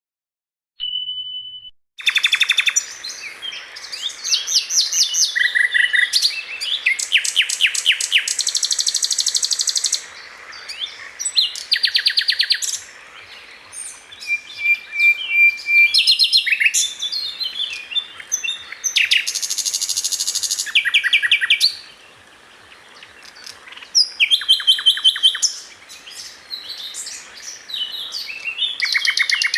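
Common nightingale singing: one short held whistle about a second in, then from about two seconds phrases of rapid repeated notes and trills, broken by short pauses.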